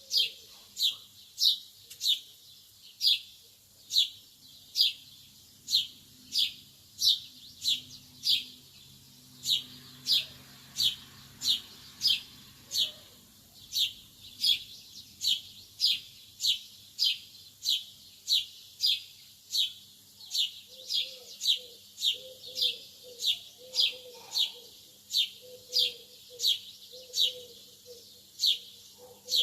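A lovebird chirping the same short, sharp, high call over and over at an even pace of nearly two a second.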